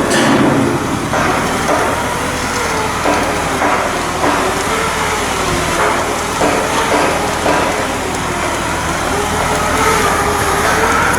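Shipyard machinery running with a hum that slowly wavers up and down in pitch, with scattered knocks from work on the hull.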